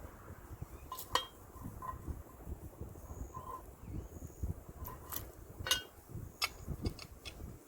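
A series of scattered sharp clicks and light clinks, some with a brief ringing tone, over a low steady rumble.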